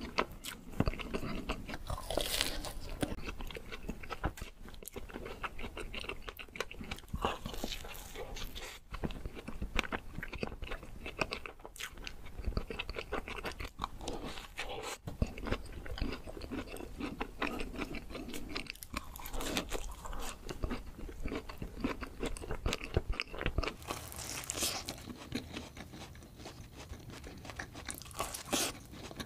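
Close-miked ASMR eating of cream-and-strawberry-topped donuts: steady chewing and wet mouth sounds, with a few louder bites, one near the start and two near the end.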